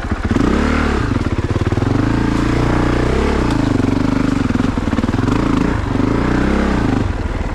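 2022 Honda CRF450RX's single-cylinder four-stroke engine revving up and down under throttle while riding. The pitch climbs sharply about half a second in, then rises and falls repeatedly.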